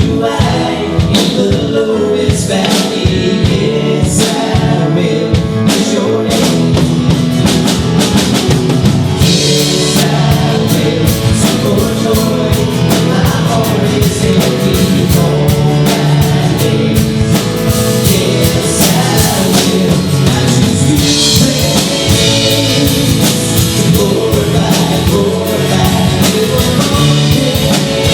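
Gospel band playing with singing over a drum kit, guitars and keyboard, with a steady beat throughout.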